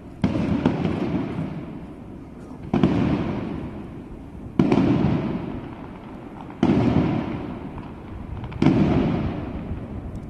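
New Year fireworks: five aerial shells bursting about two seconds apart, each sharp bang followed by a long, dying rumble.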